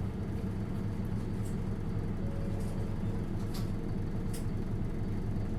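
Isuzu Erga LV290N1 city bus's four-cylinder diesel engine and drivetrain running steadily while on the move, heard inside the cabin as an even low drone, with a few light rattles.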